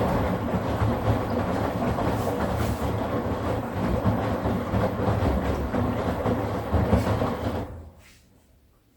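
Midea HealthGuard Smart 13kg washing machine in its spin cycle, running loud with heavy rattling vibration and a pulsing low hum, then cutting off shortly before the end. This is the noise during spinning that the owner treats as a problem needing a fix.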